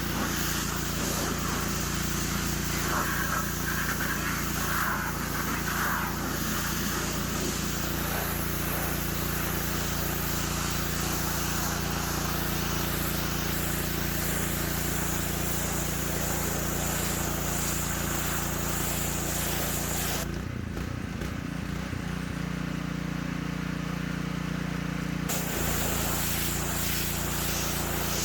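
Gas pressure washer with a Honda GX200 engine running steadily under load, its spray hissing. About twenty seconds in the spray stops for about five seconds and the engine note changes, then the spray starts again.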